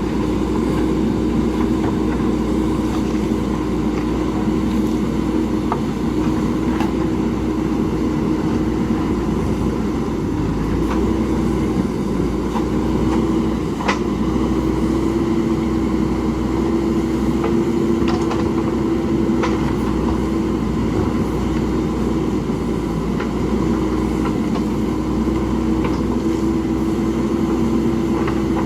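Diesel engine of a JCB backhoe loader running steadily under working load, its pitch wavering slightly, with a few brief knocks.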